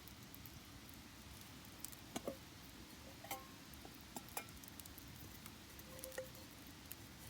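Faint wood campfire crackling, with irregular sharp pops and snaps scattered through it, a few of them louder.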